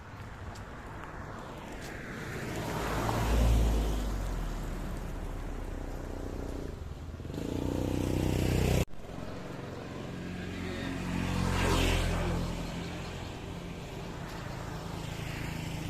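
Motor vehicles passing on a road: the sound swells and fades about three seconds in and again about twelve seconds in, with a steady engine hum in between. It breaks off abruptly about nine seconds in.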